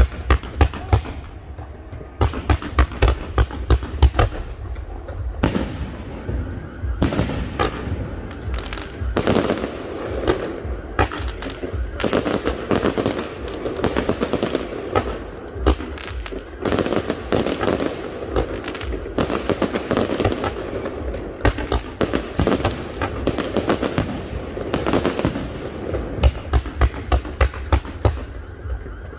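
Aerial fireworks display: many sharp bangs of launches and bursting shells in quick succession, with crackling between them. Near the end comes a fast, even run of loud bangs, about three a second.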